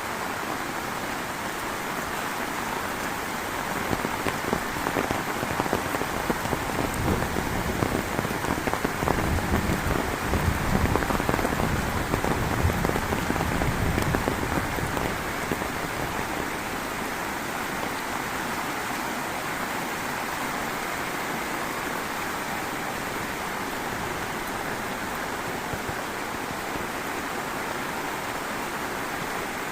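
Heavy rain falling steadily with a dense patter of drops. It grows louder and heavier for about ten seconds, from about four seconds in, then settles back to a steady downpour.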